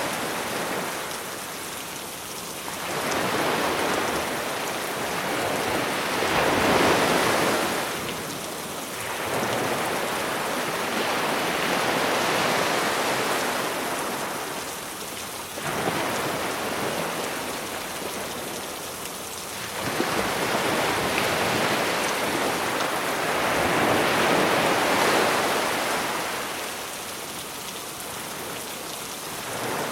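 Sea waves surging onto a beach and drawing back, swelling and fading every four to six seconds, under a steady hiss of rain.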